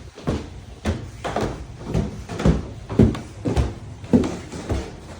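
A steady series of dull thuds or knocks, about two a second, about ten in all.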